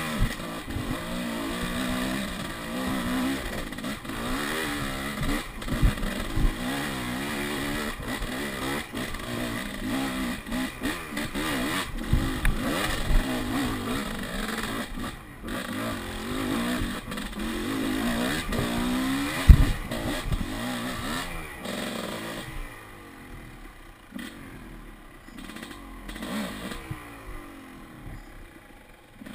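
Dirt bike engine revving up and down as it rides, with clatter and knocks from the bike, including one hard knock about two-thirds of the way in; the engine becomes quieter over the last several seconds.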